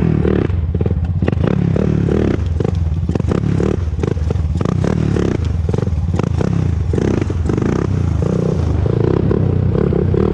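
2001 Honda TRX400EX's single-cylinder four-stroke engine running on a ride, its speed rising and falling with the throttle.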